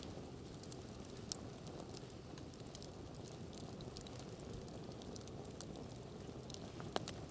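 Wood campfire crackling: scattered small snaps over a steady low rush, with a sharper pop about a second in and another near the end.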